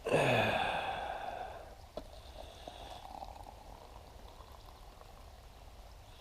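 Liquid poured into a cup. It starts suddenly and tapers off over about two seconds, with a single click near the end of the pour and a faint trickle after.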